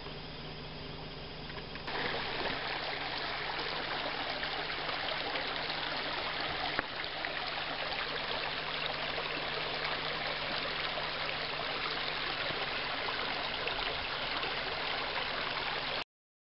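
Rushing water from a jungle waterfall and stream, a steady even rush that gets louder about two seconds in and stops abruptly near the end.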